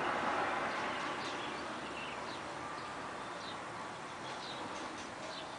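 Faint, short bird chirps scattered over a steady background noise that slowly fades away.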